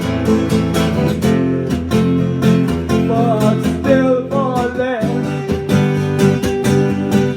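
Acoustic guitar strummed in a steady rhythm, with a singing voice carrying a short wavering phrase in the middle.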